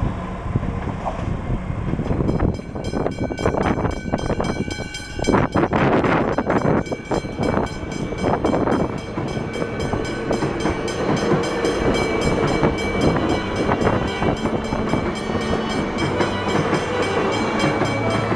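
Siemens electric suburban train passing over a road level crossing, loudest a few seconds in, while the crossing's warning bells ring in a rapid, even rhythm.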